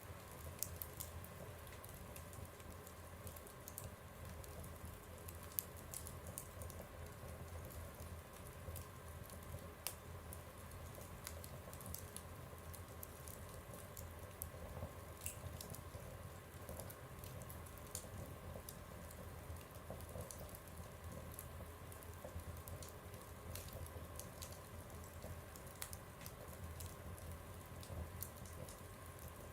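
Wood fire burning in a stove, crackling with scattered sharp pops and ticks over a low, steady rumble.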